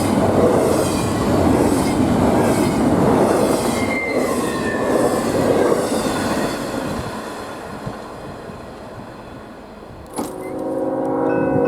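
Freight train cars rolling past, with wheels clicking over rail joints in a steady beat and a brief wheel squeal about four seconds in; the noise fades as the train moves away. Near the end a sharp click is followed by several steady ringing tones.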